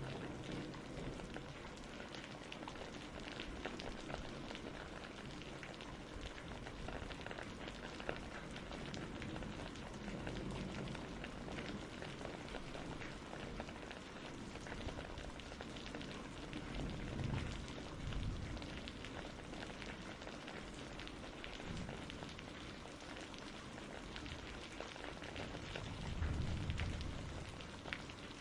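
Steady rainfall from a storm ambience, with two low rumbles of thunder, one about halfway through and one near the end.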